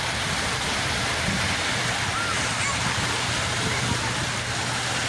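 Sea waves washing on the shore in a steady, even rush, with a low steady hum underneath and a few faint short high calls.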